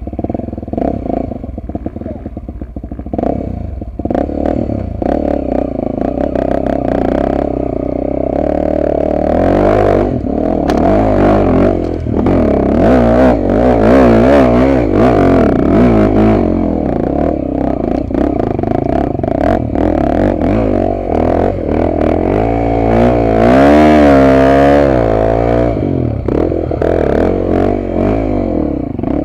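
Trail motorcycle engine revving hard under load, its pitch swinging up and down as the throttle is worked, with clattering over it.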